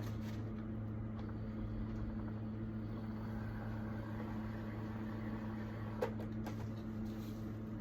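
Electric golf trolley motor running steadily with a low, even hum, with one short click about six seconds in.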